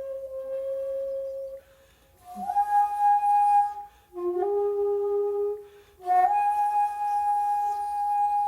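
Solo shakuhachi (end-blown bamboo flute) playing slow, long held notes with breathy tone, separated by short pauses for breath. The note near the start is held for under two seconds, followed by a higher note. After that comes a lower one, then a long high note that carries on to the end. Most of these notes start with a quick upward slide into pitch.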